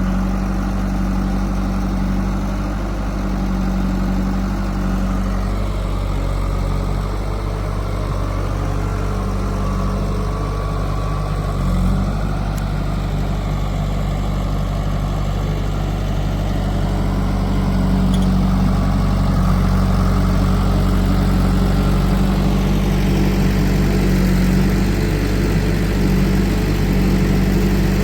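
Heavy diesel engine of a backhoe loader or tractor running steadily at a low, even speed, a little louder from about two-thirds of the way through.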